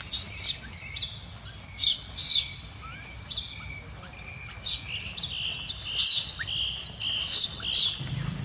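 Birds chirping in the forest, short high calls repeating every second or so.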